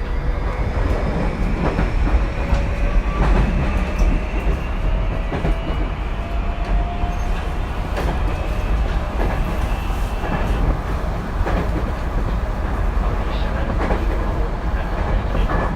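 Tokyu 2020 series electric train running, its inverter motor whine rising slowly in pitch as the train gathers speed until about ten seconds in, over a steady rumble and the clicks of wheels over rail joints.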